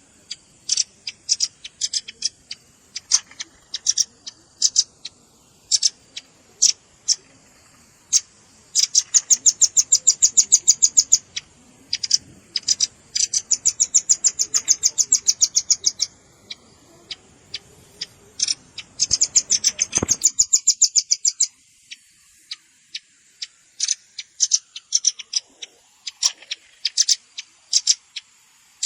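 Velvet-fronted nuthatch (red-billed rambatan) calling: sharp, high chip notes, some single and some run together in three fast trills of two to three seconds each. A faint background hiss cuts off abruptly about two-thirds of the way through.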